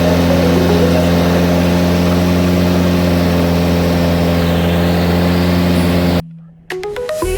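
An engine running at a steady speed, a constant low drone that cuts off abruptly about six seconds in.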